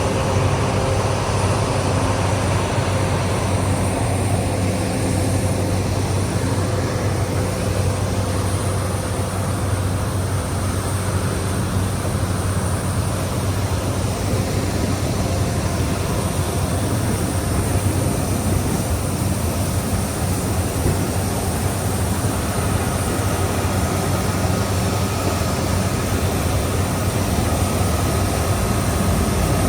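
Aircraft engine noise running steadily and loud, heaviest in the low range, with a higher steady whine joining in about three-quarters of the way through.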